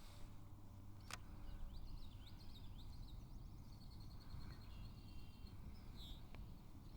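A songbird chirping faintly, a run of short high notes and then a quick even trill, over a low steady outdoor rumble. A single sharp click comes about a second in.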